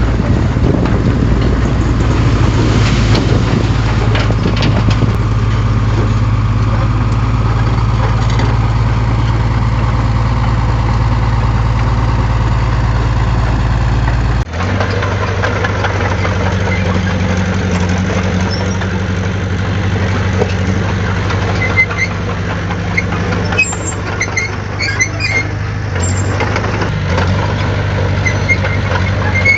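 Heavy diesel engine of earthmoving equipment running steadily. About halfway through the engine sound changes abruptly to a different steady running note, and light clicks and clinks follow.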